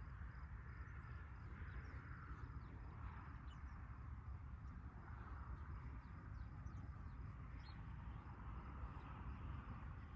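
Faint outdoor ambience: a steady low rumble and a soft hiss that swells and fades, with faint, scattered high chirps.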